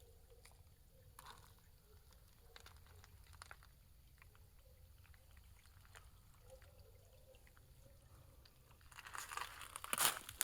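Faint trickle of a small, clear woodland creek, with scattered small clicks. Crunching steps through dry leaves come in near the end.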